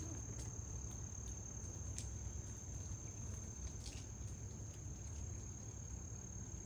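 Steady high-pitched insect trill, unbroken, over a low background rumble, with a couple of faint ticks.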